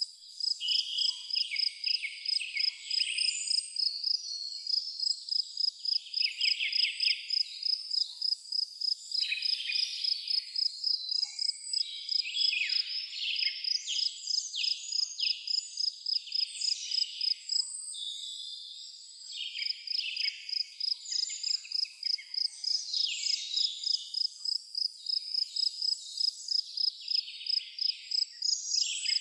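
Crickets chirping in a steady pulsing rhythm, a few chirps a second, pausing briefly a little past halfway, with several birds singing irregular trilling phrases over them.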